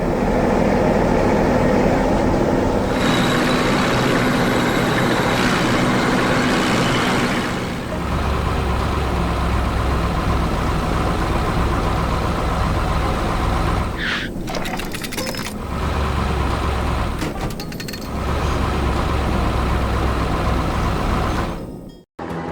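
Heavy construction vehicle sound effects: dense machine noise, then a steady low diesel-engine rumble from about a third of the way in, broken by short clattering and a brief hiss midway. The sound cuts off abruptly just before the end.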